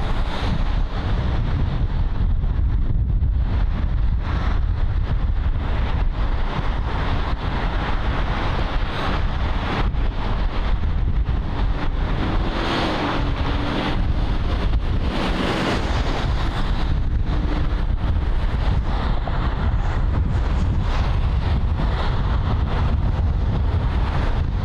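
Wind rumbling on the microphone over steady freeway traffic noise.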